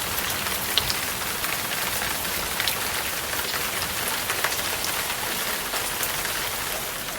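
Steady rain falling, a dense patter of drops with many small sharp ticks.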